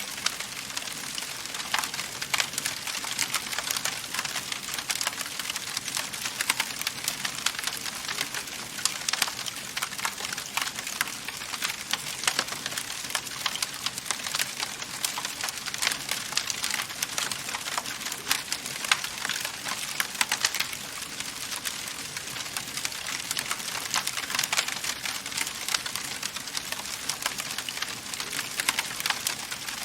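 Wood fire crackling, with dense, irregular pops and snaps over a steady hiss of burning.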